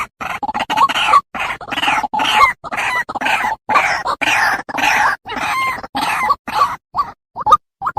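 White-breasted waterhen (ruak-ruak) calling: a fast run of harsh, croaking notes. Near the end they thin out into single short notes about two a second.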